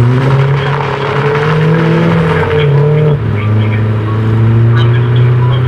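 BMW E92 M3's S65 V8 engine running hard, its note stepping up at the start, dipping briefly around the middle, then holding steady.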